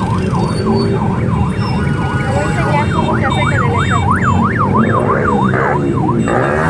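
Electronic siren wailing, its pitch sweeping up and down, speeding to a fast yelp about halfway and slowing again near the end, over the steady rumble of engines.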